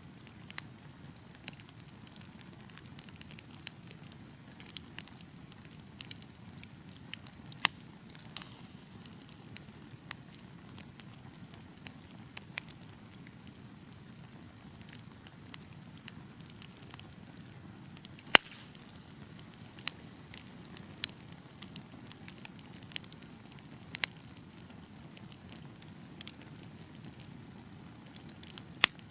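Wood fire burning in a fireplace: a steady low rumble of flames with irregular sharp crackles and pops, a few much louder than the rest.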